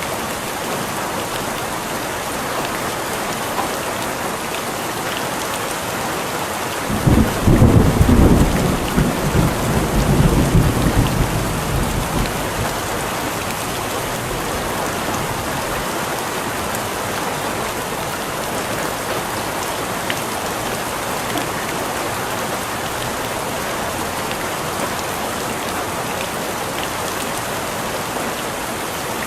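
Steady heavy rain falling, with a roll of thunder that breaks in about seven seconds in, the loudest part, and rumbles away over the next five seconds.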